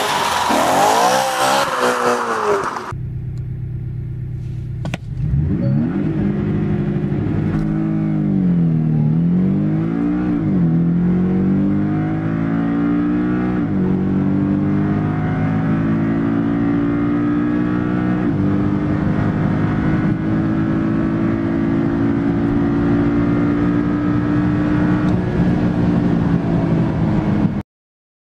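A whooshing logo sound effect for the first few seconds. Then a Porsche 718 Cayman's turbocharged flat-four idles briefly before a launch-control start: the engine revs up and pulls hard, its pitch dropping at each quick PDK dual-clutch upshift, then climbs slowly and steadily in a high gear. The engine sound cuts off suddenly near the end.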